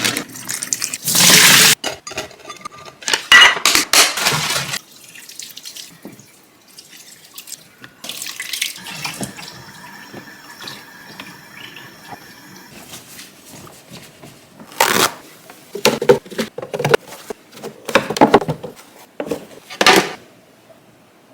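Kitchen tap running in short bursts with water splashing, as when rinsing produce. Scattered knocks and clatter of containers follow near the end.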